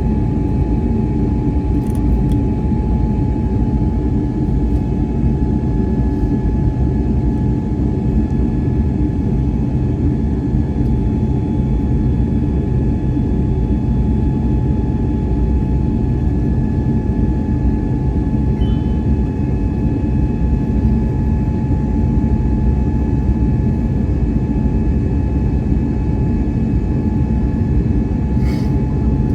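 Steady in-flight cabin noise of an Airbus A321neo: a continuous low rumble of engines and airflow, with a steady high hum from the engines running through it.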